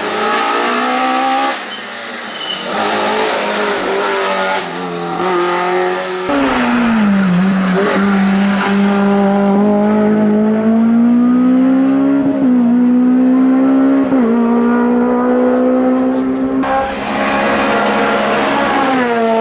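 Racing car engines at full throttle on a hillclimb. The engine note climbs steadily and drops back briefly at each gear change, with a few abrupt switches from one car or pass to the next.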